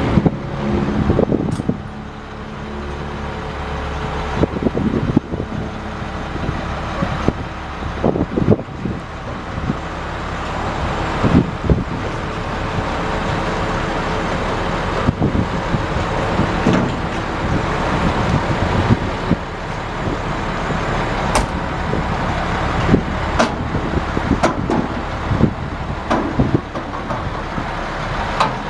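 2002 International 4900 dump truck's DT466 inline-six diesel running. Its level dips about two seconds in, then slowly builds, with scattered knocks and rattles throughout.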